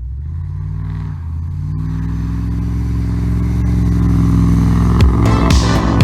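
A motor vehicle engine running steadily and gradually getting louder, with sharp knocks starting about five seconds in.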